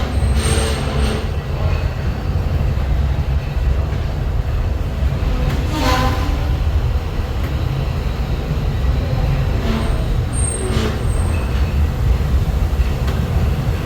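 Walt Disney World Railroad train rolling along the track, with a steady low rumble and an occasional clank. A brief high-pitched squeal comes twice, near the start and about ten seconds in.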